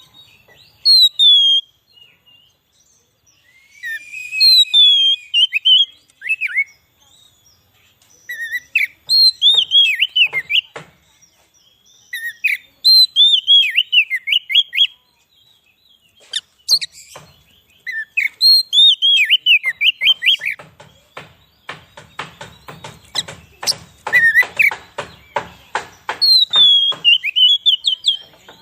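Oriental magpie-robin (kacer) singing: loud, varied whistled phrases of sliding notes, coming in bursts every few seconds with short pauses between them. In the second half these are mixed with a fast run of dry ticking notes.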